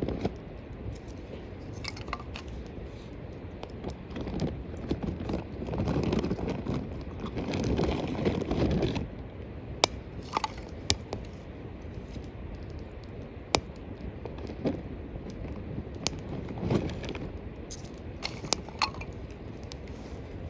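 Small wood fire in a cooking bowl crackling. Crunching and rustling in the first half, then sharp single pops every second or two.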